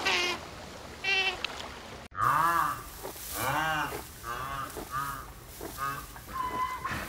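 A couple of short high sea otter squeaks, then after a sudden cut a white rhinoceros calling: a rapid series of short calls, each rising and falling in pitch.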